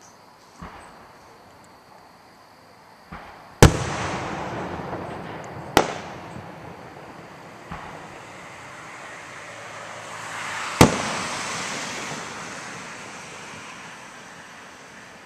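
Fireworks going off: about six sharp bangs, the loudest about three and a half seconds in, each trailed by a hissing wash that swells again after a big bang near two-thirds of the way through.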